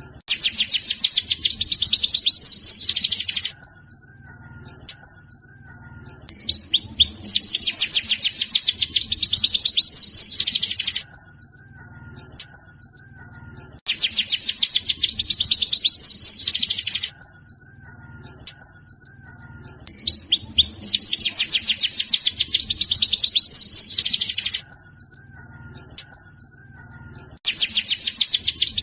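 Pleci (white-eye) song in breeding condition: runs of sharp high chip notes, about four a second, alternate with bursts of rapid, high twittering song, each three to four seconds long. The cycle repeats about every seven seconds, four full times.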